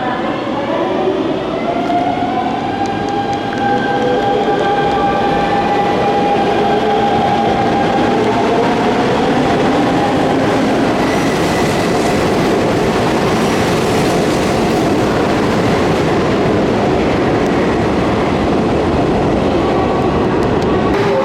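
Electric commuter train of the Hanshin Main Line moving at the station: its traction motors whine, the pitch climbing over the first couple of seconds and then holding steady, under the loud steady rumble of wheels on rail that swells about four seconds in.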